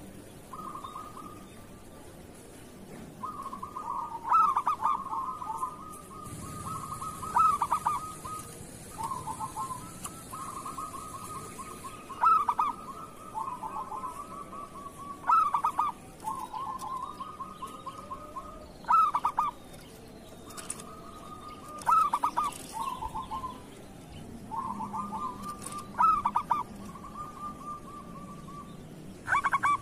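Local zebra dove (perkutut) cooing over and over: a loud, stuttering burst of notes about every three to four seconds, each followed by trailing, rolling coos.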